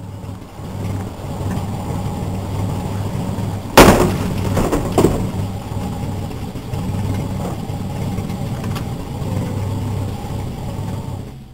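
Jeep Grand Wagoneer engine idling steadily, with a loud sharp bang about four seconds in and a smaller one about a second later.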